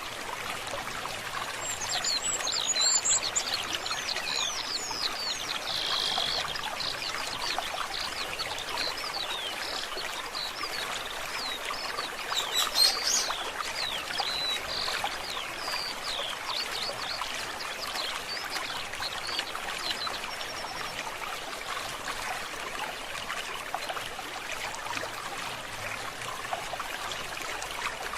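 A stream trickling and splashing steadily, with songbirds chirping in quick, rapid series of short high notes over the water through the first two-thirds, loudest about 3 and 13 seconds in.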